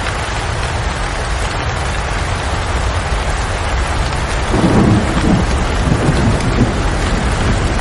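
Steady heavy rain, with a low rumble of thunder building from about halfway through.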